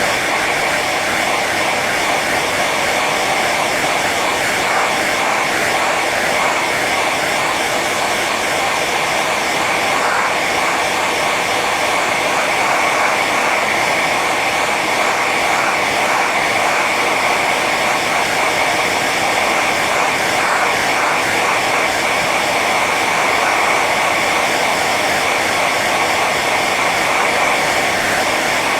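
Hair dryer running steadily on its high setting: a constant rush of blown air with a steady high whine from the fan motor.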